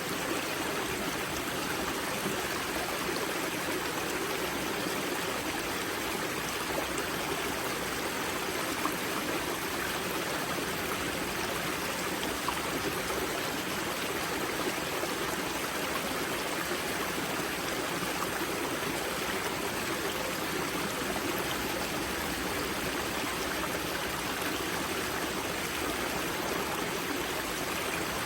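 Spring-fed mountain river flowing steadily over rocks at its source, a constant rushing with a light trickle and gurgle in it.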